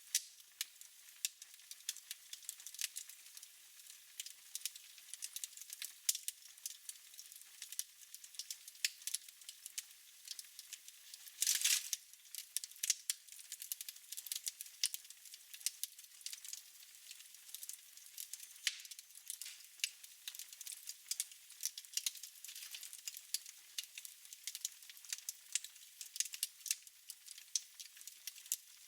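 Wood fire crackling in a fireplace: irregular sharp pops and snaps over a faint hiss, with one louder, longer burst about twelve seconds in.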